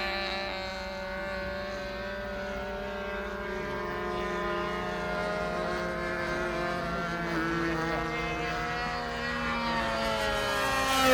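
Model aircraft's propeller engine drone, steady with small shifts in pitch, getting louder near the end as it comes closer.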